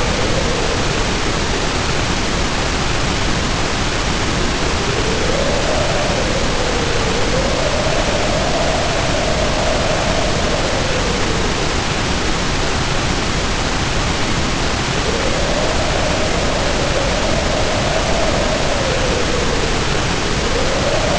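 Storm ambience: heavy rain falling as a steady hiss, with wind howling over it in a low moaning tone that rises and falls in slow swells. The howl drops away briefly near the middle and comes back.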